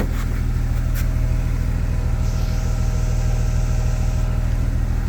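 1998 BMW E36 M3's straight-six engine idling steadily, with a low even pulse. A faint click comes about a second in.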